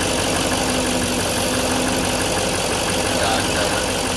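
2016 Chevrolet Silverado 2500's 6.6 L Duramax V8 turbo-diesel engine idling steadily.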